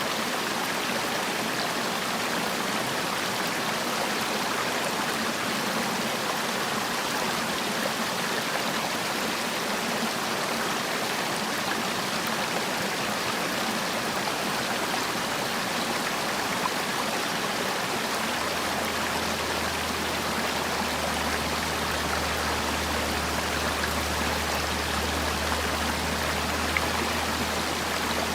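Mountain valley stream water flowing, a steady, even rush with no break. A low steady hum joins in about two-thirds of the way through.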